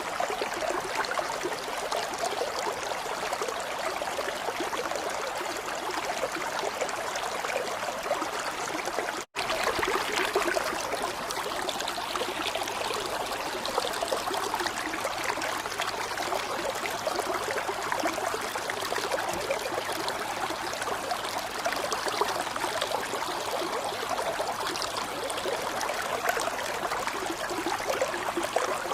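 Steady running water, an even stream-like trickle. It cuts out for an instant about nine seconds in, then carries on.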